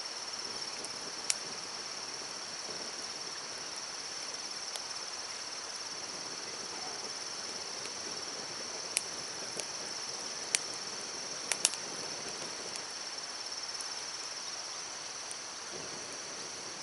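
Insects trilling in a steady, high, fast-pulsing chorus over the even rush of a stream, with a few sharp clicks scattered through it.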